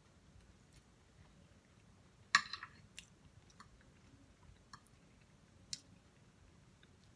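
Close-miked chewing of a chicken and vegetable noodle stir fry: small wet mouth clicks, with one louder, crackly bite about two and a half seconds in and a couple of sharper clicks after it.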